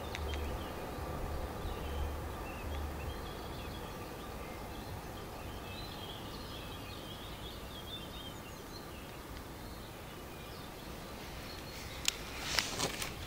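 Small birds chirping and singing over a steady outdoor hiss, with a few sharp clicks or knocks near the end.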